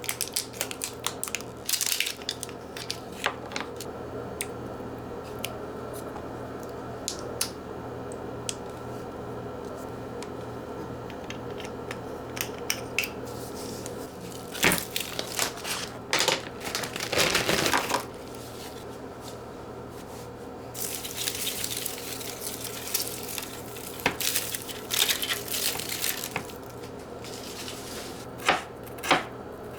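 Kitchen preparation sounds over a steady low hum: scattered clicks and knocks of dishes and utensils being handled, with two longer stretches of rustling and rubbing, one around the middle and one a little later.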